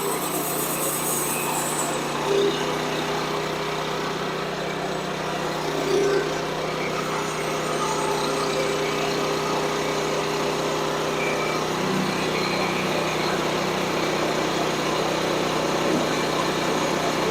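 Woodland Mills portable band sawmill running steadily, its small gas engine driving the band blade.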